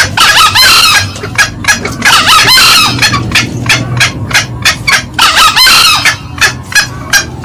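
Green junglefowl calls from a loud lure recording: a rapid, steady series of sharp clucks, about four a second. Three bursts of shrill cackling from the cock and hen cut in over it, near the start, about two seconds in and about five seconds in.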